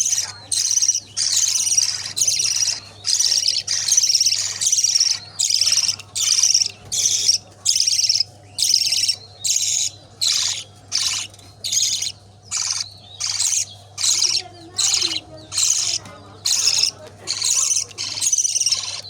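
Budgerigar chick calling over and over with raspy, high-pitched cheeps. The calls are longer and run together for the first few seconds, then settle into short, evenly spaced calls about one and a half a second.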